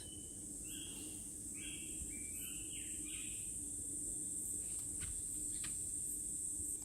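Rainforest insects keeping up a steady high-pitched drone, with a few short bird chirps in the first half.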